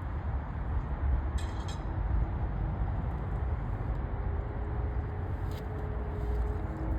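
Steady low rumble of vehicle noise, with faint shifting tones and a couple of brief clicks.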